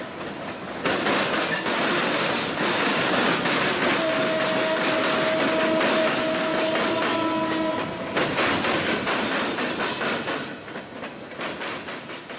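Mixed freight train passing close by: steady clatter and rumble of steel wheels over the rail joints as the cars roll past. About four seconds in, a train horn holds one steady note for about four seconds. The rolling noise fades near the end.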